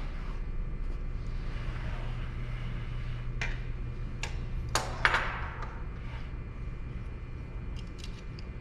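A few short, sharp clicks and knocks of wood and a measuring tool being handled, the loudest about five seconds in, over a steady low hum of shop machinery.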